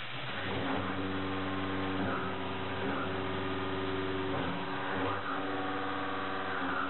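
A 2-inch five-flute mid-feed shell mill cutting 4140PH steel at 1050 rpm, a steady humming tone from the teeth striking the steel, with evenly spaced overtones above it. The tone comes in a fraction of a second in as the cutter engages, and swells briefly about once a second.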